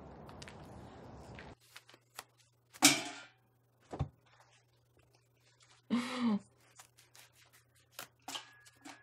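Steady outdoor hiss that cuts off after about a second and a half. Then a quiet room with a low hum: scattered clicks and a single thunk about four seconds in as cloth face masks are cut up with scissors, and two short wordless voice sounds.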